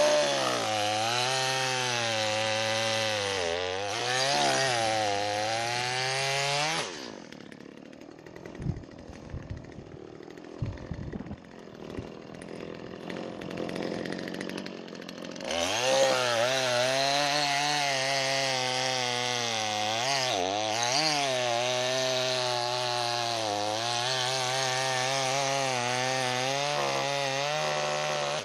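Gas chainsaw running at full throttle, its pitch dipping and recovering as it bogs into wood. It cuts off about seven seconds in, a few knocks follow, and it starts cutting again a little past halfway.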